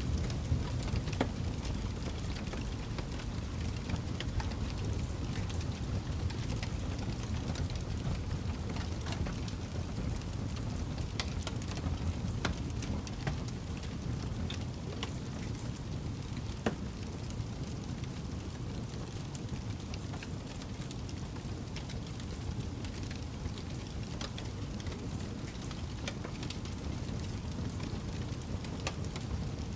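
Campfire burning: a steady low rumble of flames with irregular crackles and pops from the burning wood.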